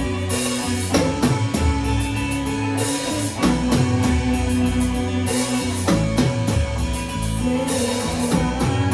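Live rock band playing an instrumental passage: drum kit and guitars, with a drum hit about every two and a half seconds.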